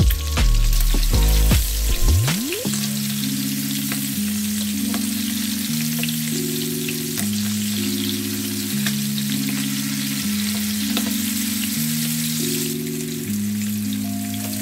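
Salmon fillets sizzling as they fry in melted butter in a pan, a steady hiss throughout. Background music of steady low chords runs under it from about two seconds in.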